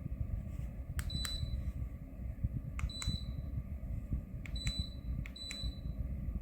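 Buttons being pressed on an electric ceramic fan heater's control panel, four times: each press gives a click and a short high beep. A low rumbling noise runs underneath.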